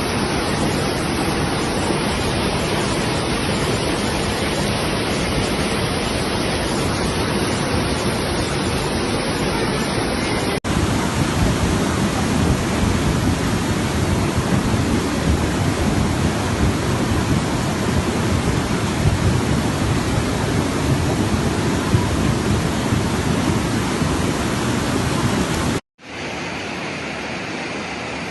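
Loud, steady rush of floodwater. It breaks off for an instant about ten seconds in, and again near the end, where it comes back thinner.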